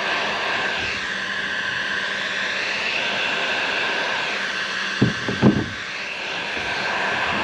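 Heat gun blowing steadily with a faint whine as it melts plastic scraps into a kayak hull patch. Three short knocks about five seconds in.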